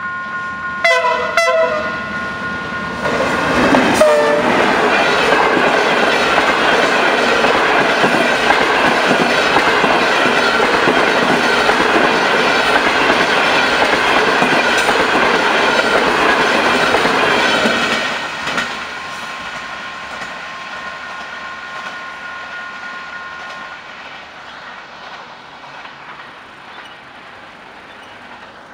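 Diesel-hauled passenger train passing a level crossing. The locomotive's horn sounds about a second in and again briefly near four seconds, then the locomotive and coaches run past with clickety-clack of the wheels for about fifteen seconds before the noise drops off and fades. The crossing's warning bell rings steadily throughout and stops a few seconds after the train has gone.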